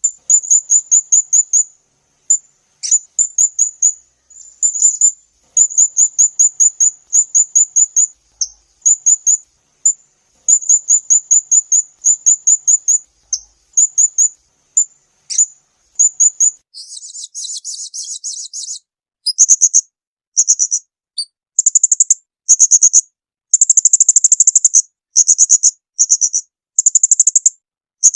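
Recorded song of a small songbird, high-pitched and fast: bursts of quick repeated notes, a buzzy rattle about 17 seconds in, then longer, louder bursts of rapid notes.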